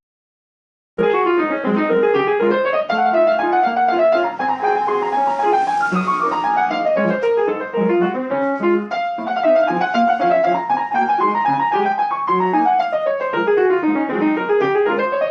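Solo piano playing a flowing piece of rising and falling arpeggio runs, starting about a second in.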